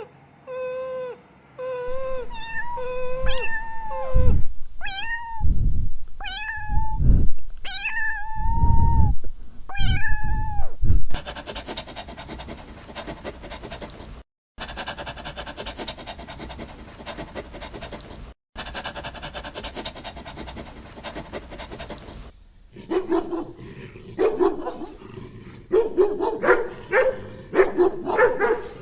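Cats meowing in a series of short clips: first a string of short, even mews, then loud drawn-out meows that rise and fall in pitch. After a long stretch with no clear calls, a run of short cries comes near the end.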